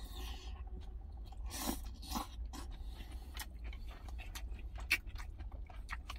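A person slurping stew broth off a spoon, then chewing a mouthful with many small wet clicks and crunches. A steady low hum runs underneath.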